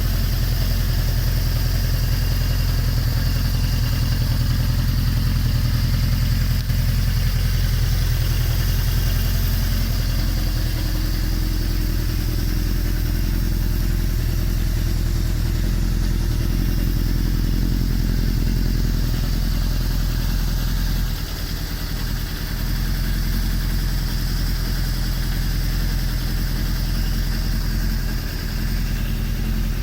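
Suzuki GSX1100S Katana's air-cooled inline-four engine idling steadily through an Asahina aftermarket exhaust muffler.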